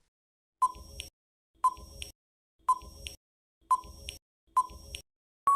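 Quiz countdown timer sound effect: five short beeps about a second apart, each with a click, counting down the answer time. A long steady beep begins right at the end, marking time up.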